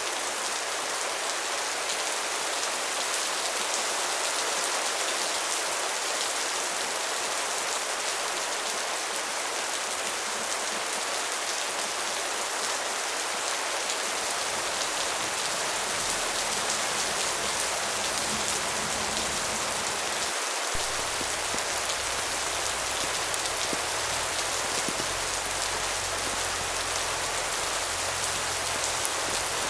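Steady rain: an even hiss of falling rain with the faint patter of individual drops. About two-thirds of the way through, a faint low rumble joins underneath.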